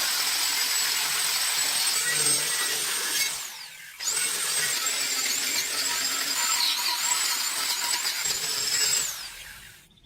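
High-speed power tool running with a high whine and working noise. It spins down about three seconds in, is started again a second later, dips in pitch under load, then spins down again near the end.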